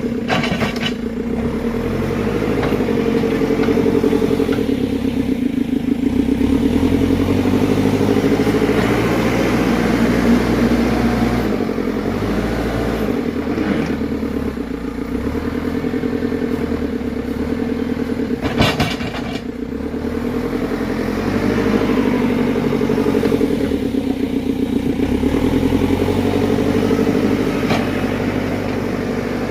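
Dump truck engine running steadily while driving, its low note shifting up and down as the revs change. Two sharp knocks sound over it, one about a second in and one about two-thirds of the way through.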